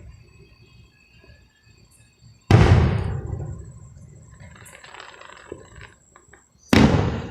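Two firework shells bursting about four seconds apart, each a sudden loud bang followed by a long fading rumble, with scattered crackling between them.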